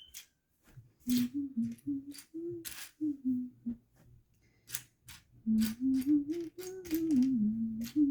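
A woman humming a wandering tune in two phrases, while plastic building-block pieces click and clatter as they are picked out and handled.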